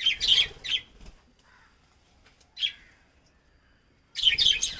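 Lovebirds giving sharp, high-pitched chirps: a quick burst of several calls at the start, a single call around the middle, and another rapid burst near the end.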